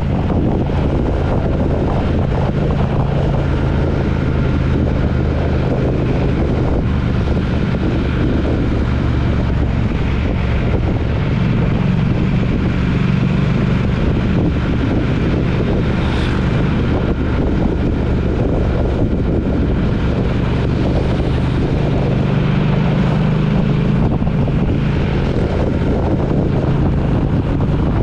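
A road vehicle's engine running steadily at cruising speed, with road and wind noise on the microphone.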